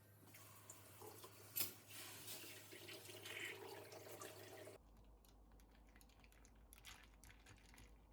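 Water running and splashing, as from a tap into a sink, with one sharp knock about a second and a half in; it cuts off suddenly after about five seconds, leaving a few faint clicks.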